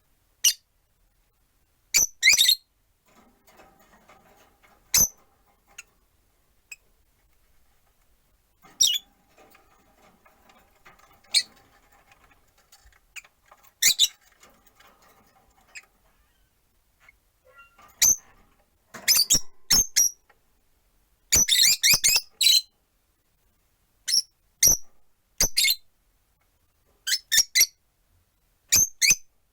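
Rosy-faced lovebirds giving short, sharp, high chirps. The calls come singly and in quick clusters, busiest a little past the middle.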